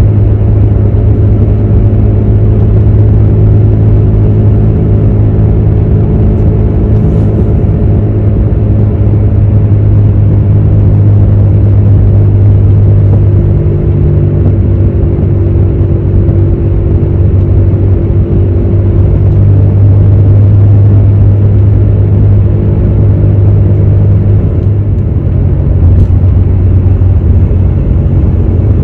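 Car driving with a bad wheel hub bearing humming: a loud, steady low drone with road rumble, its pitch shifting slightly partway through. The hum is the sign of a worn hub bearing.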